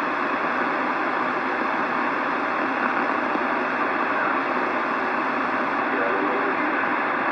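Steady hiss of radio static with no voice on the channel, an open two-way radio receiver between transmissions.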